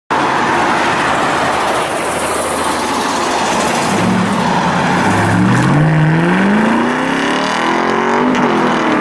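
A car's engine accelerating hard, its pitch climbing steadily from about four seconds in, over a continuous rush of noise.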